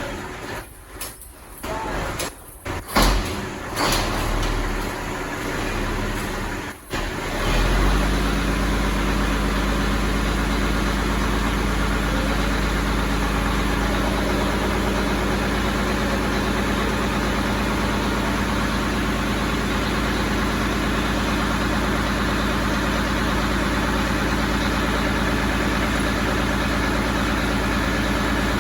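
Mack Cruiseliner cab-over truck's diesel engine being started: broken, uneven cranking sounds for several seconds, then it fires about seven seconds in and settles into a steady idle.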